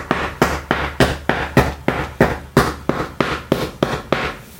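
Hammer tapping staples down into the boat seat's board, a quick steady series of sharp taps about three a second, driving the staples flush so the cover holds.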